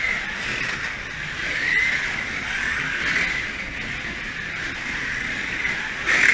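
Slot cars running on the track, their small electric motors whining in a band that swells and fades as the cars speed up and slow through the corners.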